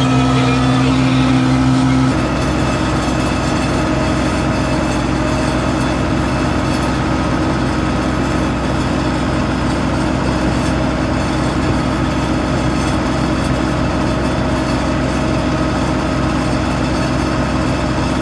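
Massey Ferguson 399 tractor's diesel engine running steadily under load while hauling a slurry tanker; its note changes about two seconds in, then holds even.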